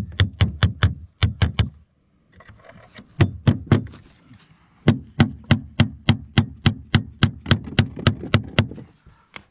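Hammer driving nails into fibre-cement artificial slate shingles: three runs of quick sharp strikes, about four to five a second, the last and longest run lasting nearly four seconds.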